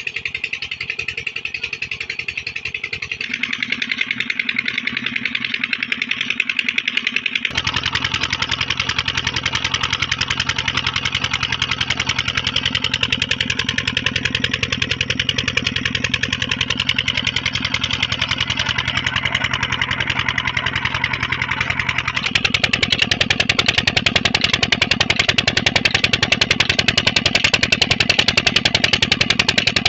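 Petter diesel engine running just after a cold start, with a rapid, even diesel knock. It grows louder and fuller about seven seconds in, and again about 22 seconds in.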